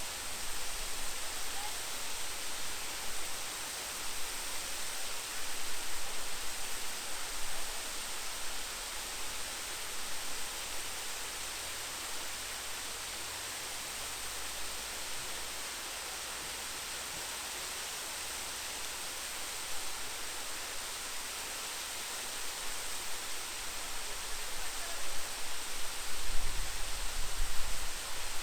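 Waterfall rushing: a steady, even hiss of falling water. Low rumbling gusts on the microphone come and go, strongest near the end.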